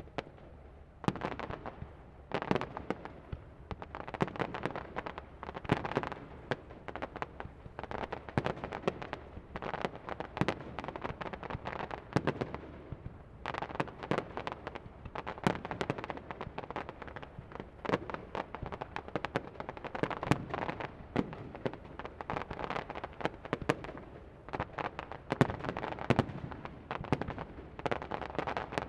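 Fireworks display: shells bursting in a rapid, dense barrage of bangs and crackling reports. It starts about a second in and dips briefly around halfway.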